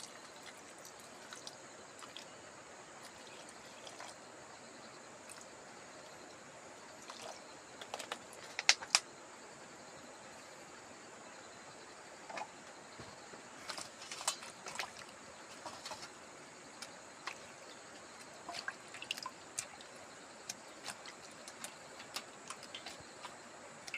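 Faint water dripping and trickling, with scattered small clicks and taps over a steady high-pitched hiss; the loudest two clicks come about nine seconds in.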